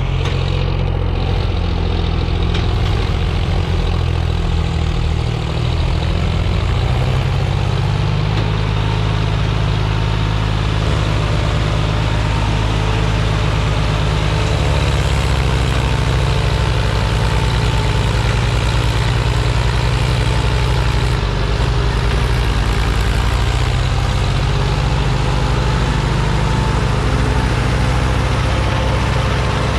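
Diesel tractor engine running steadily at low revs, with slight rises and falls in pitch.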